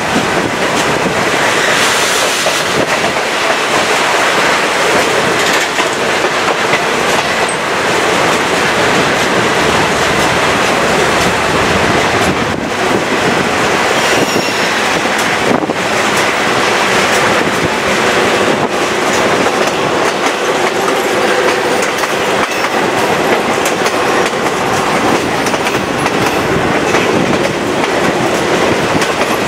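Chepe passenger train (Ferrocarril Chihuahua al Pacífico) running at speed, heard from an open window of one of its cars: steady wheel-and-rail rolling noise with clickety-clack over the rail joints. A faint wheel squeal comes in during the second half as the train rounds a curve.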